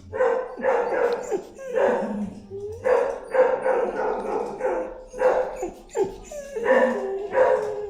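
A dog barking and yelping over and over, about ten short pitched calls in a row.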